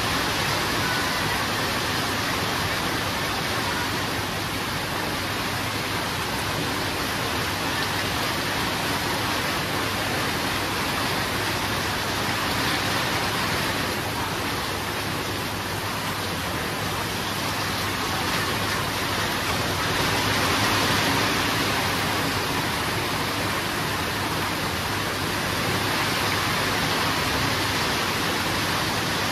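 Heavy rain falling steadily, an even hiss that swells slightly now and then, with no thunder.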